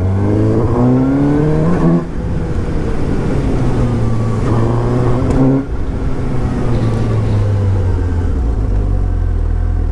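Suzuki GSX-S750 inline-four engine on the road, accelerating hard. Its pitch climbs and then falls sharply twice, about two seconds in and again about five and a half seconds in, like upshifts, then it runs steadier and lower.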